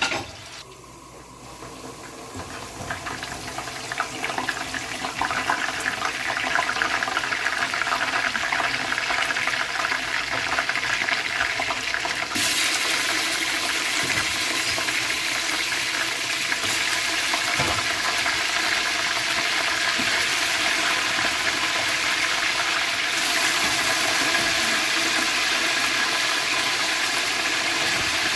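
A pot of chicken pulao cooking on the stove, bubbling and sizzling in a steady, loud hiss. It builds up over the first few seconds, then turns brighter about twelve seconds in and again near the end.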